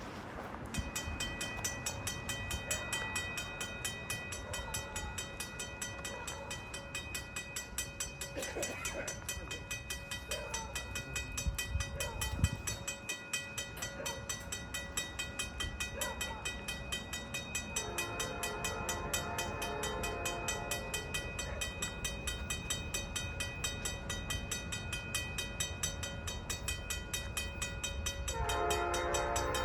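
Level-crossing mechanical bell ringing with rapid, even strokes. An approaching freight train's multi-chime air horn sounds a blast of about three seconds midway and starts another near the end.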